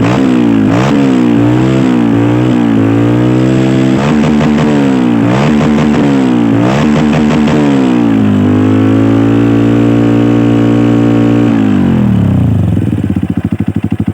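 Honda CRF motorcycle engine through a Norifumi RV1 aftermarket exhaust, revved in a series of quick throttle blips, then held at a steady higher rev for a few seconds. It drops back to a lumpy, pulsing idle near the end.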